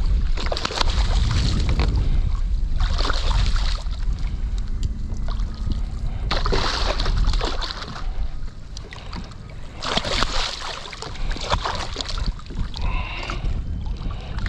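Wind rumbling on the microphone, with water splashing and sloshing against a kayak in bursts every few seconds.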